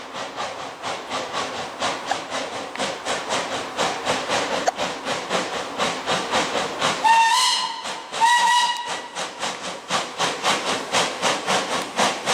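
Steam locomotive working past, its exhaust chuffing about three times a second, with two whistle blasts about halfway through, the second just after the first.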